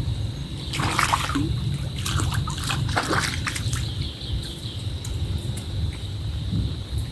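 Water splashing and sloshing in a run of splashes from about one second in to about three and a half seconds, over a steady low rumble.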